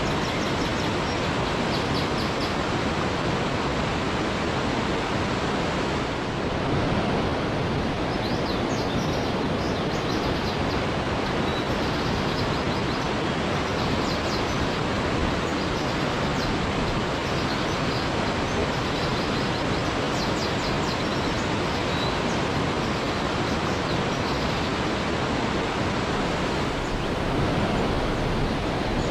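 Steady, even rushing of a waterfall, with a few faint, short high chirps scattered over it.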